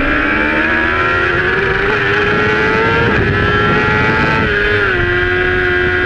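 Supersport racing motorcycle engine heard from on board at full race pace: the engine note climbs for about three seconds, dips briefly, then steps down just before five seconds and holds steady, with a rush of wind noise underneath.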